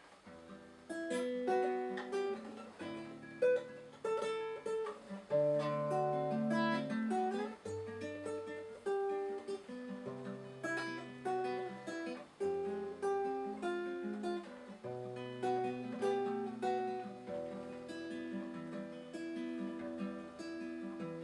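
Acoustic guitar playing a picked instrumental introduction to a song: a steady run of single notes over a changing bass line.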